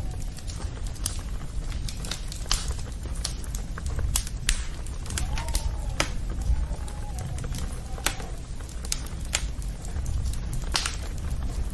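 Campfire burning, with irregular sharp crackles and pops of wood over a low steady rumble. A faint wavering whistle comes twice around the middle.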